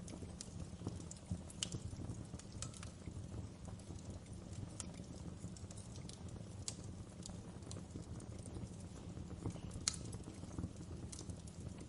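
Wood fire crackling in a fireplace: irregular sharp pops and snaps over a steady low rumble of the flames, with one louder pop near the end.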